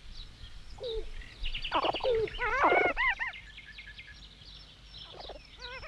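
Birds chirping and calling in a forest, with a burst of quick warbling trills about two to three seconds in and a short rapid trill near the end.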